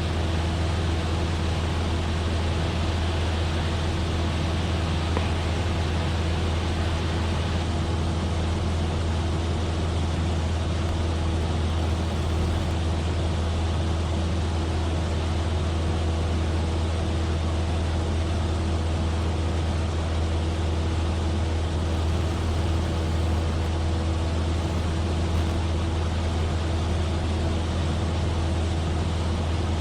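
Cessna 172F's six-cylinder Continental O-300 engine and propeller droning steadily in cruise, heard inside the cockpit: a constant deep hum with a steady higher tone over a wash of air noise.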